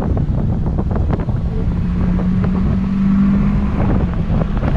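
Car engine pulling hard in a roll race, heard from inside the cabin over heavy road and wind rumble; its steady drone climbs a little and grows louder in the middle, then eases back about four seconds in.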